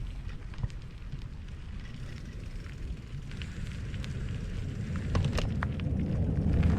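Mountain bike rolling over a rough, rocky dirt trail: tyres crunching on loose rock with scattered clicks and rattles, under a low rumble of wind on the microphone that grows louder toward the end.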